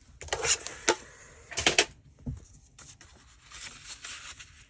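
Scissors cutting through paper: a few long snips about half a second in and again near two seconds, then softer paper handling.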